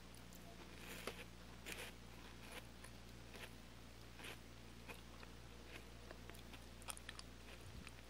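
Faint chewing and crunching of a chocolate-cream-filled wafer cookie, a few scattered crisp bites over a steady low electrical hum.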